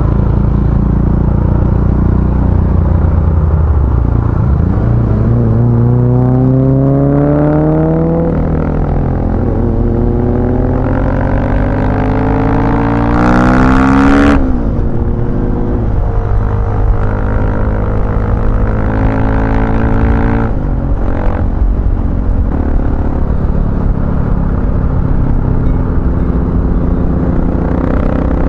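Husqvarna FE 450 single-cylinder engine with an FMF Powercore 4 exhaust, loud, accelerating with its revs climbing in two long pulls before dropping sharply about halfway through, then running on at a steadier pace.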